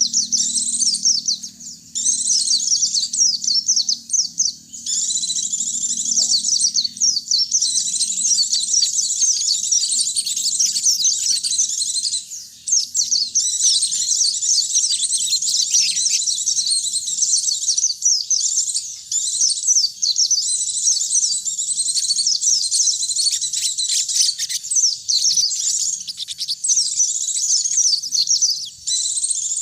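White-eyes (pleci) and sogon birds singing: a dense, unbroken stream of rapid, high chirps and twitters with a few short pauses.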